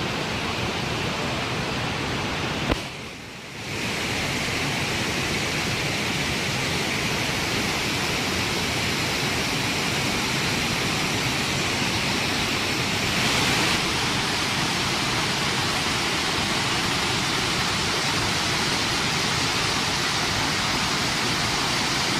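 Steady rush of the Keila waterfall's falling water. A click about three seconds in is followed by a brief dip of about a second, then the rush resumes.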